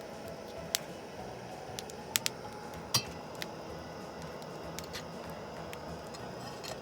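A few sharp, separate clicks and clinks of eating utensils and tableware, four or five in all, over a steady low background noise.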